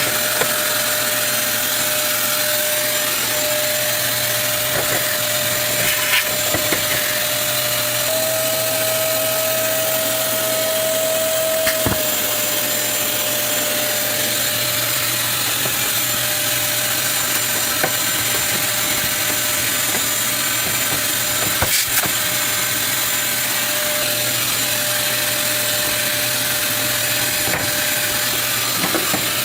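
Vacuum cleaner running steadily, with a few light knocks. Its whine rises slightly in pitch for a few seconds about eight seconds in, then drops back.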